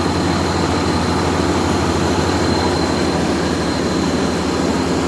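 A large rice combine harvester's diesel engine running steadily with a dense low throb. A thin, steady high whine sits over it.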